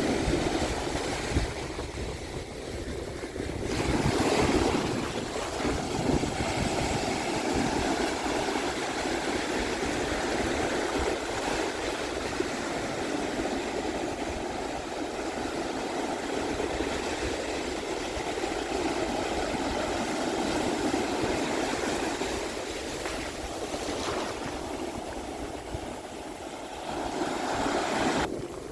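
Ocean surf breaking and washing up on a beach: a steady rushing wash that swells as waves come in, about four seconds in and again near the end, with wind buffeting the microphone.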